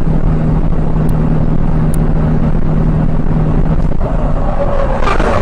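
Vehicle driving on the road: a loud, steady engine and road noise with a constant low hum. About four seconds in, a higher, shifting noise joins and grows louder.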